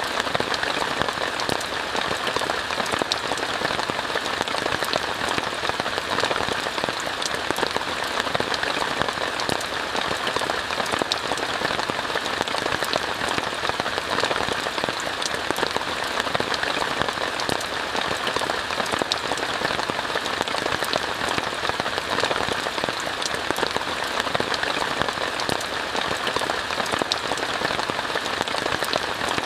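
Steady heavy rain falling on a tent, an even, unbroken hiss of many small drop hits.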